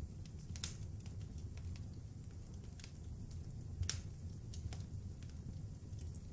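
Wood fire crackling in a fireplace: irregular sharp pops and clicks, the loudest nearly four seconds in, over a low steady rumble.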